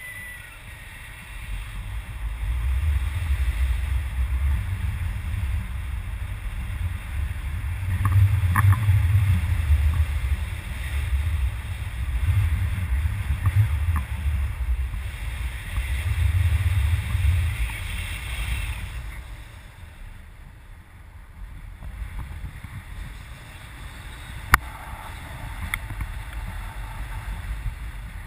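Wind buffeting the microphone in gusts, a heavy uneven rumble that eases off for a few seconds about two-thirds of the way in. One sharp click near the end.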